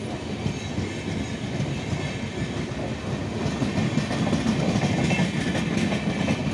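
Passenger train passing close by: a steady rumble and clatter of wheels on the track, growing louder over the last couple of seconds as the end vehicle's bogies roll past.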